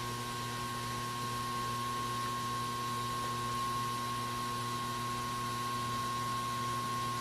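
Steady electrical hum with a high, constant whine and an even hiss underneath, unchanging throughout, with no distinct handling noises.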